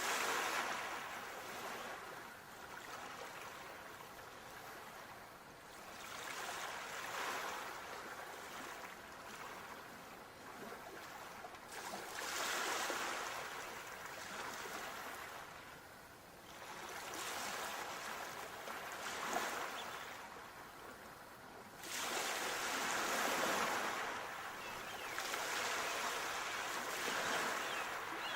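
Sea waves washing in, about six swells each rising and falling over several seconds, with a louder wave arriving more sharply about three-quarters of the way through.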